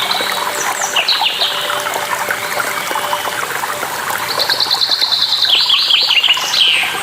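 Songbirds chirping over steady running water. Falling chirps come near the start, a rapid trill a little past the middle, then a quick run of short falling notes.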